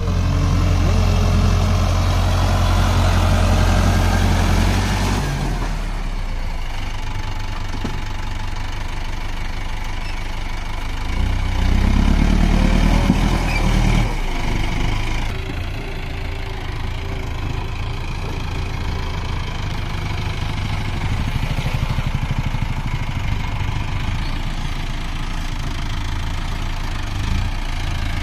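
Tractor engine running continuously. It works hard and loud for the first five seconds and again from about eleven to fourteen seconds in, and runs steadier and quieter in between and afterwards, as the tractor climbs up onto a raised road.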